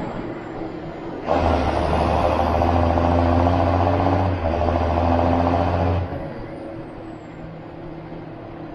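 John Deere 7530 Premium tractor's six-cylinder diesel running steadily, then suddenly louder for about five seconds from about a second in, with a faint high whine rising and later falling, before dropping back to its earlier level.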